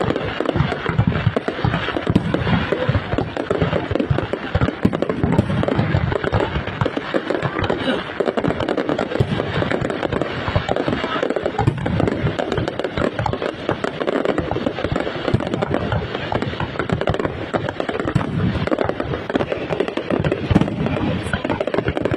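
Fireworks display, bursts going off in quick succession with no break.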